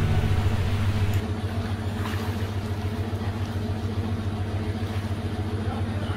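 A motor running steadily, a low hum with a few steady tones in it that eases slightly in level about a second in.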